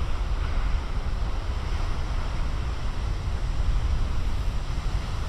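Big ocean waves breaking on the shore in a steady rush of surf, with wind rumbling on the microphone.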